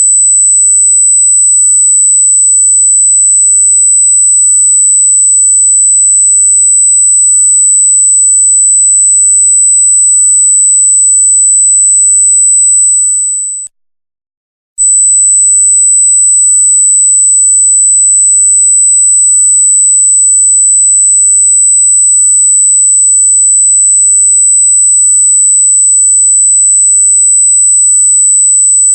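A loud, steady, very high-pitched electronic sine tone. About halfway through it fades out, drops to silence for about a second, then comes back at full level.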